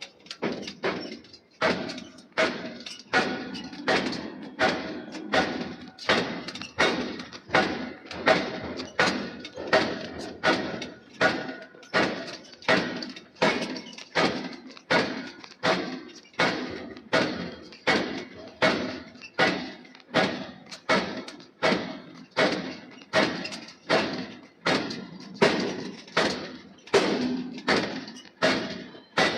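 Forging hammer striking hot steel billet in a steady, even rhythm, about three blows every two seconds, each a heavy thud with a short ring.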